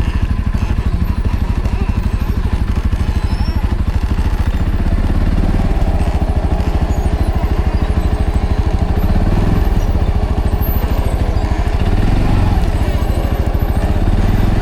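ATV engine running steadily at low speed with an even chugging beat, picking up a little about five seconds in.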